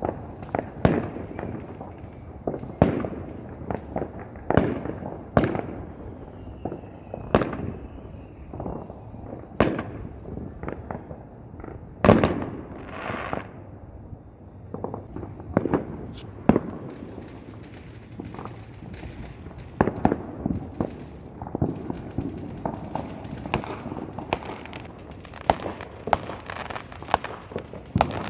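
Fireworks going off: a steady barrage of irregular bangs, some loud and close together, several trailed by a short crackle.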